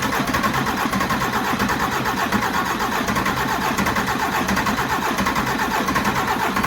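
DAF 105 truck's diesel engine being turned over on the starter motor without firing, a steady evenly pulsing cranking that pumps oil up to the open valve gear.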